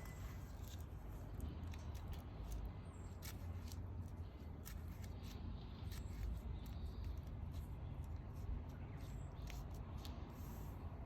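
Wood fire crackling, with irregular sharp snaps and pops over a low, steady rumble.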